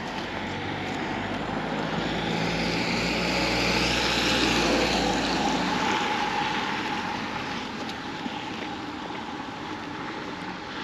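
A vehicle passing by in the street: its engine hum and road noise swell to a peak about halfway through, then fade away.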